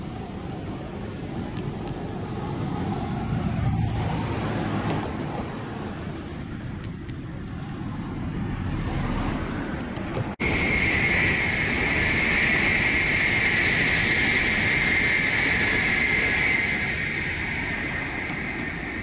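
A train rumbling along the tracks. About halfway there is an abrupt cut, after which a loud, steady high-pitched squeal with a rushing noise runs for about six seconds and then eases.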